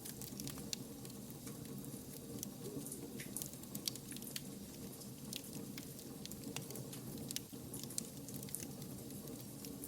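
Wood fire burning: frequent, irregular sharp crackles and pops over a steady low rush of flame.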